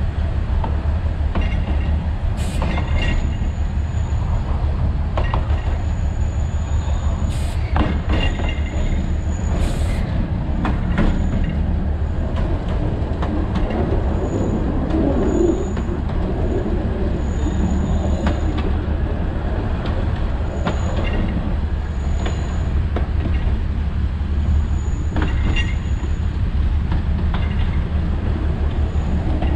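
Alishan Forest Railway narrow-gauge train running with a steady low rumble. A high, thin wheel squeal comes and goes, and there are occasional sharp clacks from the wheels on the track.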